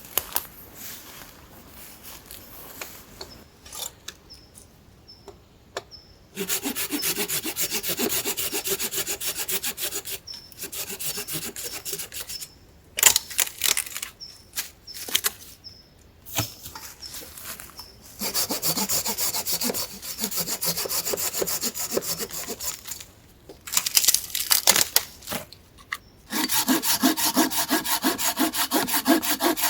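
Hand saw cutting wood in several bouts of quick, even back-and-forth strokes, with pauses and a few knocks between bouts.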